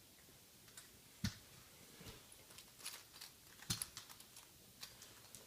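Hot Wheels toy monster trucks launched and clattering: scattered light plastic clicks and ticks, with two sharper knocks about a second in and just past halfway.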